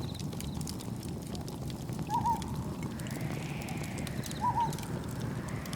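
Campfire crackling over a steady low rumble of wind and surf, with a short two-note animal call twice, about two and a half seconds apart, and a soft wash swelling about halfway through.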